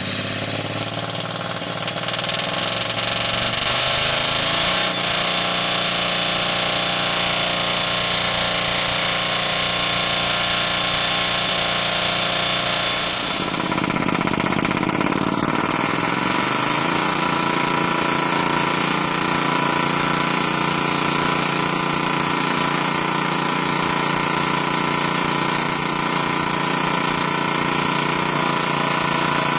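Engine-driven machinery running steadily; its pitch climbs over the first few seconds, and about halfway through the sound changes abruptly to a different steady machine hum.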